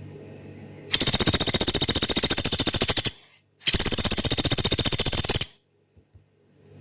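Pelatuk beras, a small woodpecker, giving two long, harsh, rapid trills of about two seconds each, with a short pause between them.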